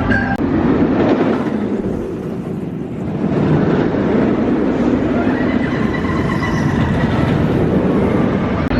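Roller coaster train running on its track: a loud rumble mixed with wind rushing over the microphone, easing briefly about two seconds in before building again.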